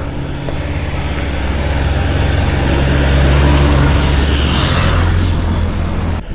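Vehicle engine running on the road, with road and wind noise over it. It grows louder to a peak past the middle, then eases off.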